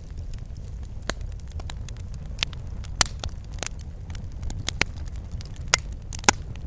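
Wood fire crackling in a fireplace: a steady low rumble of the flames with irregular sharp pops and snaps, the loudest about three seconds in and again near the end.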